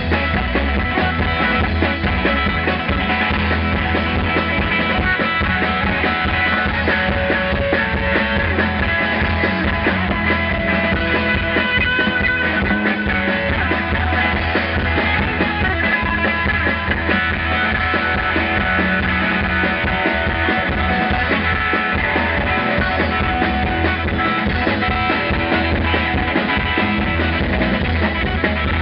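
Rock band playing live, guitars and bass over a steady, unbroken passage.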